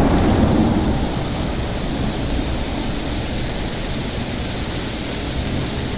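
Hailstorm: hailstones falling heavily, a dense steady clatter, a little louder in the first second.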